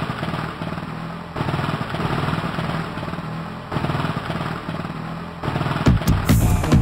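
Motocross bike engines running and revving, in several short clips joined by abrupt cuts. Near the end, music with heavy drum hits comes in.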